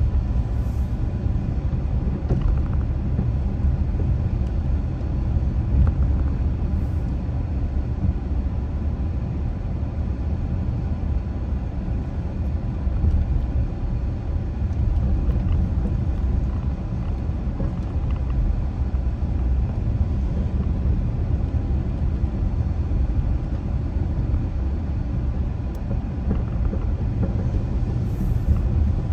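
Steady low rumble of a car driving along a road: engine and tyre noise at an even speed.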